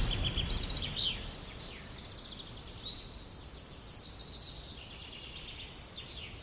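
Faint bird calls: short, rapid high-pitched trills and chirps, some sliding in pitch, over a quiet background.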